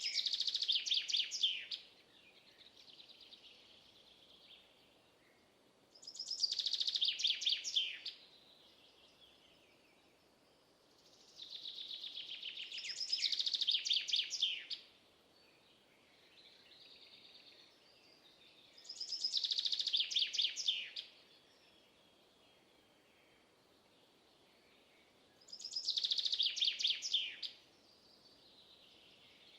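A songbird singing the same short song over and over, about every six seconds: each song is a high, quick run of repeated notes that sweeps downward and lasts two to three seconds. Fainter chirps come between the songs.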